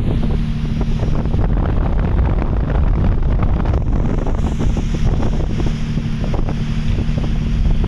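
Strong storm wind buffeting the microphone, with driving rain and a steady low hum underneath.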